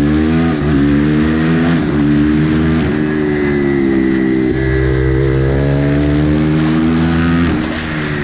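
Supermoto motorcycle engine pulling hard under acceleration, its pitch climbing and dropping sharply several times as it shifts through the gears.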